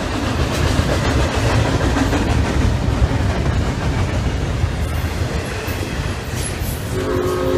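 BNSF double-stack container train rolling past: a steady, loud noise of the wheels on the rails. Near the end a horn sounds a chord of several steady tones.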